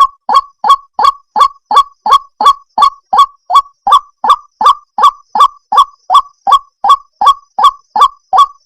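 White-breasted waterhen (ruak-ruak) calling: a long, even run of identical short 'ruak' notes, about three a second.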